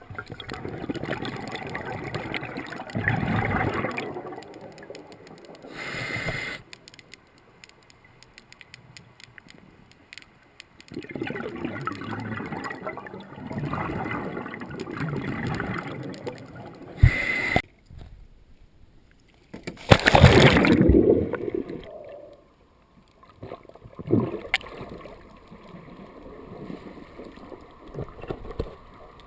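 Scuba diver's exhaled air bubbling and gurgling underwater in long bursts several seconds apart, with a couple of brief sharper hisses between.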